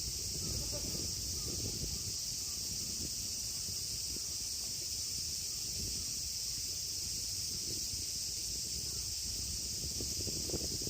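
Outdoor ambience: a steady high-pitched insect drone, like crickets or cicadas, over a low rumble, with a few faint short sounds near the start and near the end.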